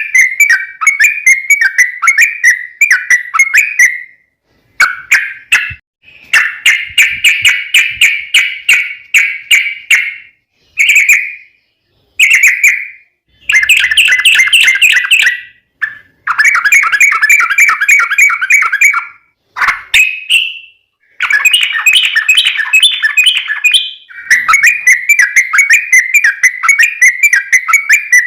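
Yellow-vented bulbul (trucukan) singing loud, rapid, chattering trilled phrases, the long run of notes that keepers call 'ropel panjang', broken by brief pauses every second or few.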